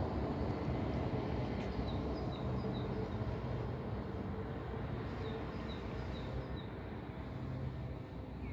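Steady low outdoor rumble, with a small bird chirping in two short runs of three or four quick high notes, about two seconds and about five seconds in.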